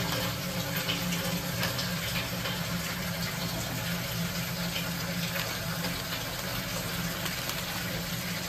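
Onions and spice paste sizzling in hot oil in an aluminium pot: a steady frying hiss, with a few light scrapes of a steel ladle against the pot.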